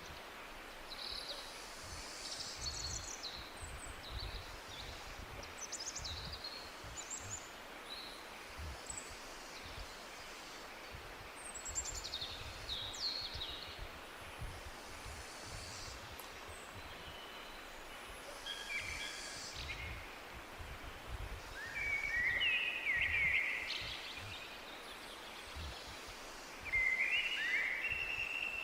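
Several wild birds singing and chirping in a forest, over a steady background hiss. Quick high chirps and trills come throughout, and louder, lower-pitched song phrases come about two-thirds of the way in and again near the end.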